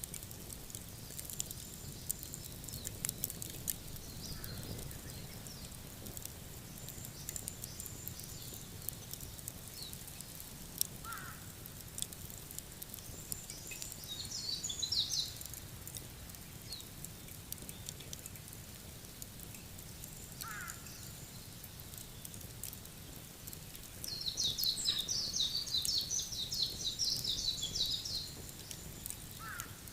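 Outdoor evening ambience with birds calling: a short burst of quick high chattering, then a longer one lasting several seconds near the end, with a brief rising chirp about every nine seconds over a low steady background. Faint scattered crackles from a campfire come through in the first few seconds.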